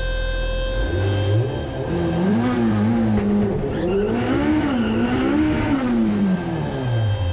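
A car engine at full throttle on a drag run, its pitch climbing through the revs with short drops at each gear change, then winding down near the end as the throttle comes off.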